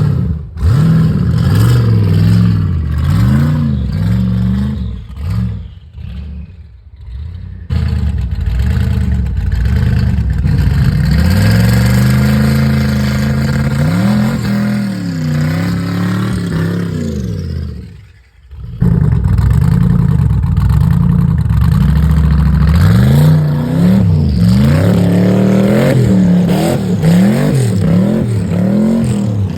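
Twin-turbo LS V8 of a Pontiac G8 being revved hard again and again, its pitch sweeping up and down as the rear slicks spin without traction on snow. The engine falls away briefly about six seconds in, and again, sharply, about eighteen seconds in.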